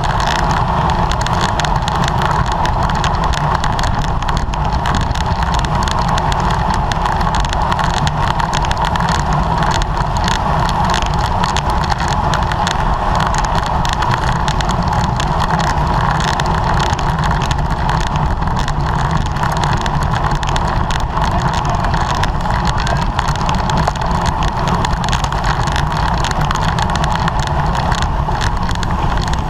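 Steady rush of wind and road noise from a bicycle ridden at race speed, heard on a bike-mounted camera's microphone.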